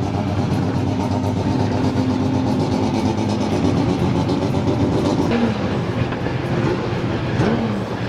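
Engines of a pack of Group Nc historic touring cars at racing speed, several engine notes overlapping into a steady drone. A couple of notes rise and fall as cars go by, about five and seven and a half seconds in.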